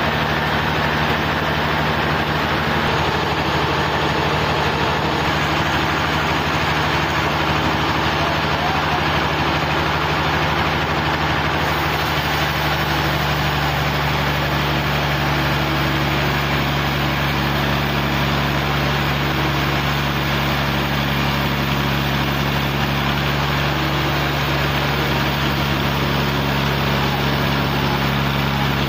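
Large engine running steadily at an even speed, with a constant deep hum under a broad noise.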